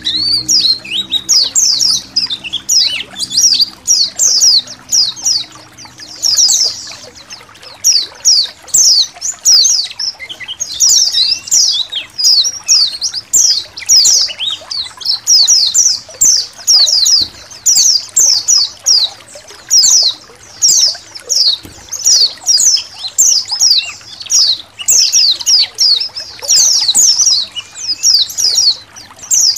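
A colony of white-eyes (pleci) chirping and singing together, a dense, unbroken stream of quick, high down-slurred notes, over a trickle of water.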